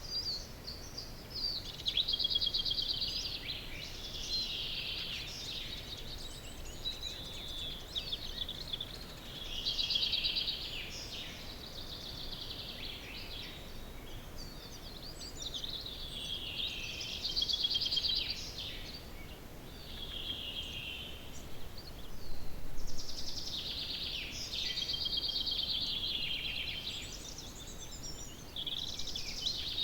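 Songbirds singing in an early-morning dawn chorus: song phrases of one to three seconds, with rapid trills, recurring every few seconds.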